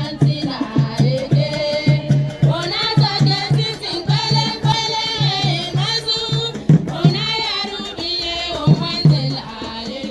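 Voices singing a song over a steady beat of low drum hits, about two a second, with other percussion.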